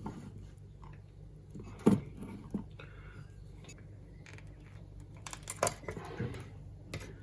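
Irregular light metallic clicks and clinks of tools and parts being handled on a workbench, the sharpest about two seconds in and a cluster a little past the middle, over a steady low hum.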